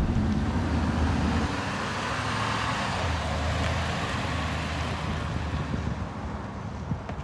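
Road noise of a moving vehicle: a steady low hum with an even rushing sound, slowly fading toward the end.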